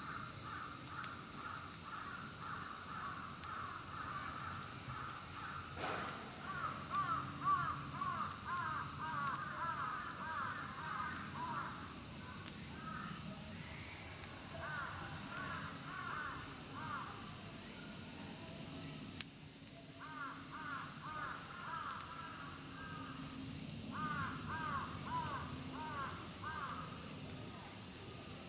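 A steady high-pitched insect chorus, over which an animal gives runs of quick repeated calls, several per second, in four bursts lasting a few seconds each.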